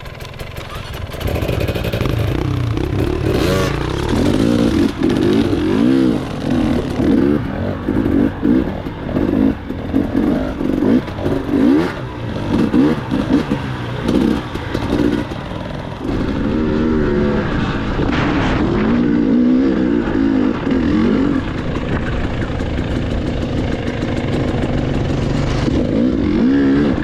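Dirt bike engine revving up and down repeatedly as it is ridden, its pitch rising and falling every second or so; steadier from about sixteen seconds in, with a few more rises.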